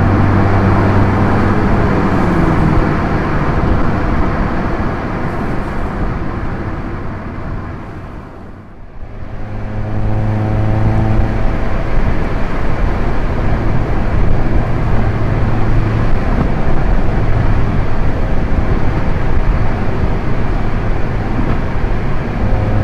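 Proton Inspira 1.8's four-cylinder MIVEC engine running at steady cruising revs, with road noise, the engine note holding one constant pitch. About eight seconds in, everything fades down and comes back up at an edit, and the steady engine note resumes.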